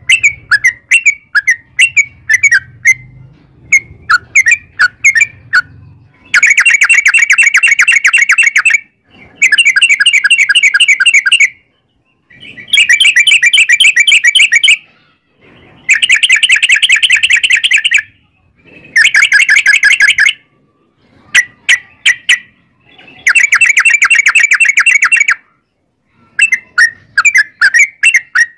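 Trucukan (yellow-vented bulbul) song: quick separate chirps, then six long, rapid trilled runs of about two to three seconds each with short pauses and scattered chirps between them, and quick chirps again near the end. This is the long rolling 'ropel' song played as a lure to make another trucukan answer.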